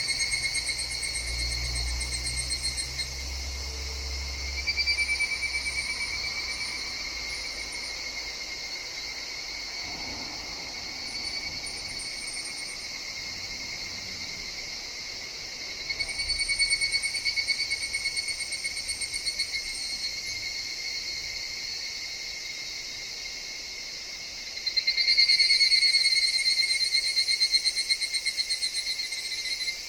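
Higurashi (evening cicadas) calling in rapid pulsing trills that swell and fade about four times, with the loudest swell a few seconds before the end. A faint low rumble sits under the first few seconds.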